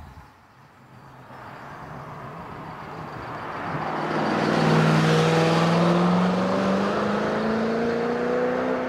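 Koenigsegg CC8S V8 engine accelerating, getting louder over the first few seconds, its pitch climbing steadily as the revs rise.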